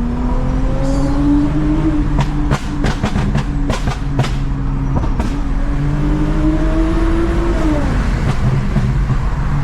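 Toyota Mark X's V6 engine through a modified exhaust, pulling under acceleration. Its pitch climbs for the first couple of seconds, climbs again from about halfway, then drops off near the end as the revs fall.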